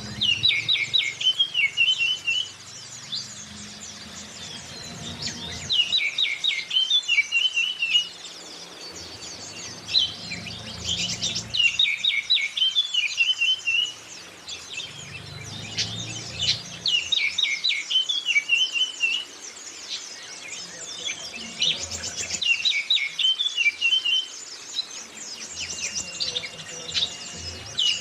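Recorded oriental magpie-robin song: a loud phrase of rapid notes and trills repeated about every five to six seconds, over a continuous thin, high chirping of white-eyes. This is a looped lure track for training caged birds.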